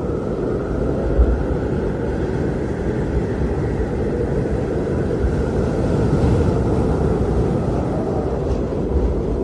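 Blizzard wind blowing steadily with a deep, low rumble, gusting briefly about a second in and again near the end, and swelling slightly around the middle.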